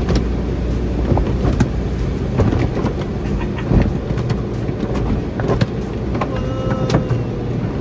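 Spinning cloth brushes of an automatic tunnel car wash slapping and scrubbing against the car, heard from inside the car's cabin over a steady low rumble of the wash machinery.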